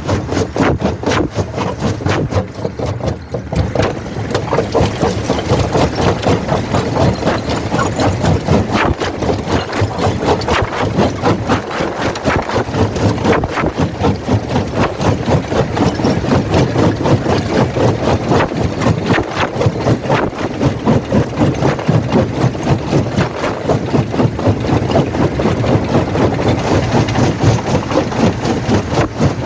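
Primary jaw crusher running under load with a fast, even knocking rhythm and a steady mechanical din.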